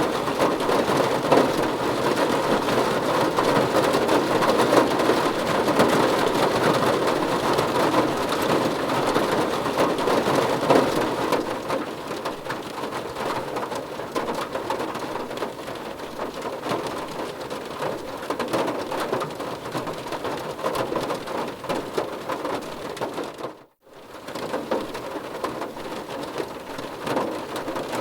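Rain falling on a car's roof and windows, heard from inside the car as a dense patter of drops. It is heavier for the first eleven seconds or so, then eases, and it cuts out for an instant about four seconds before the end before carrying on.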